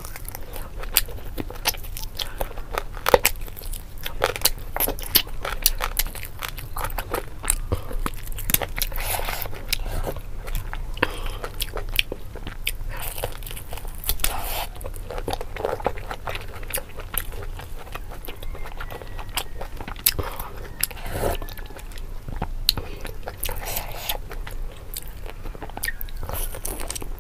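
Close-miked eating: a person biting and chewing pork eaten by hand, with many irregular sharp mouth clicks.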